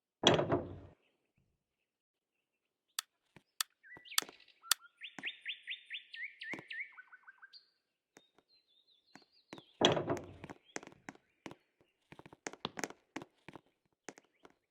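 Bird-like chirping, including a quick run of rising notes, between two loud short thumps, one near the start and one about ten seconds in. Sharp clicks follow the second thump.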